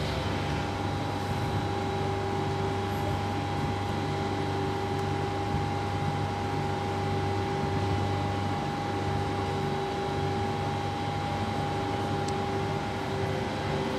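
Steady hum of a stationary double-deck TER electric train's auxiliary equipment (ventilation and converters) running at the platform. It has several held tones and a low throb that pulses on and off regularly.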